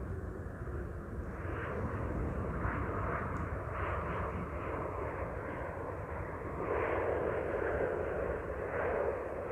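Airliner engines running as an aircraft passes, a noisy roar that swells and fades in waves and is loudest about two-thirds of the way through. Gusting wind buffets the microphone with a low rumble underneath.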